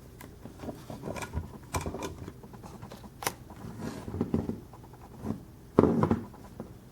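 Small clicks, taps and rattles from a 1/50 scale diecast truck model being handled, its cab doors being opened and moved. A louder knock comes near the end.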